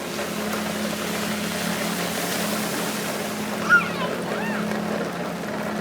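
Steady hiss of heavy rain and falling ice pellets, over a low steady hum, with one short high-pitched call about three and a half seconds in.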